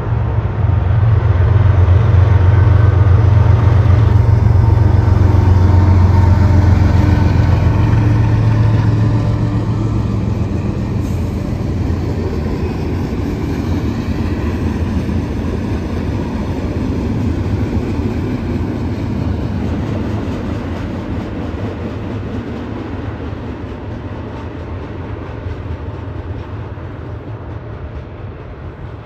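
BNSF diesel freight locomotive passing, its engine's low hum loudest for the first nine seconds or so. After that comes the steady rolling noise of flatcars and covered hoppers going by, slowly fading.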